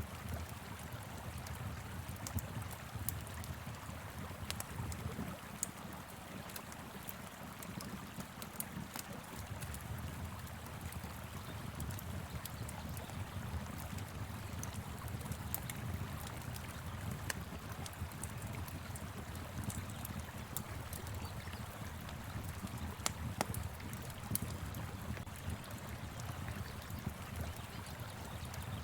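Wood fire crackling with frequent small sharp pops, over the steady rush of a flowing river and a low wind rumble.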